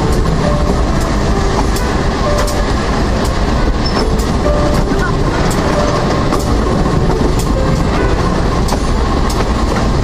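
Steady rumble of a stainless-steel electric commuter train rolling along the track, with light wheel clicks over the rail joints about three every two seconds.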